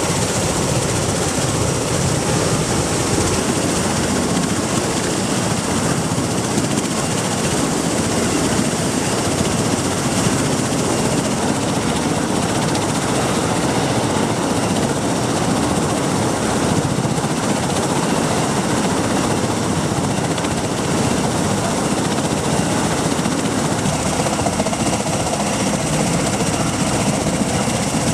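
MV-22B Osprey tiltrotor's rotors and turboshaft engines running, a loud, steady noise with no breaks.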